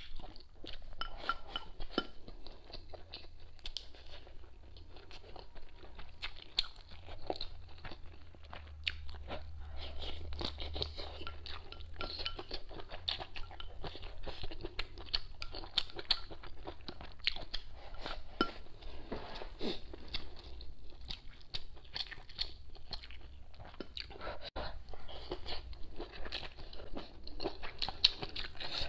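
A person chewing and biting hotpot food, with many irregular crisp crunches throughout.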